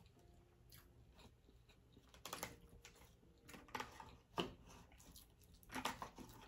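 Faint close-up eating sounds: a person chewing ramen noodles, with a few short clicks and smacks spread over a few seconds.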